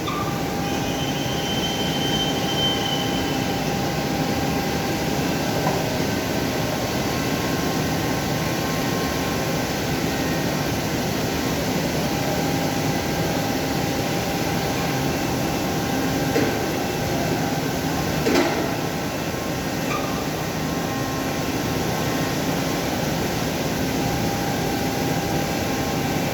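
CNC machinery running steadily, a constant mechanical drone with a steady whine, broken by two short sharp knocks about two-thirds of the way through.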